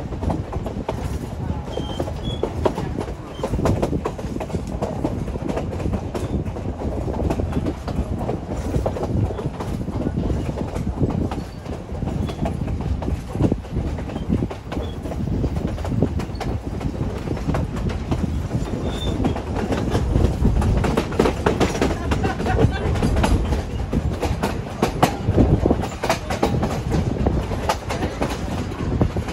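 Durango and Silverton narrow-gauge passenger cars rolling along the track, wheels clattering over the rails in a steady run of irregular clicks, heard from an open car.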